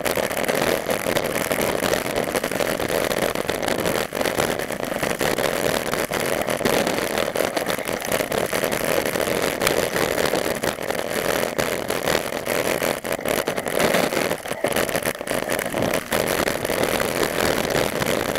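Steady, unbroken rushing noise of a bike in motion.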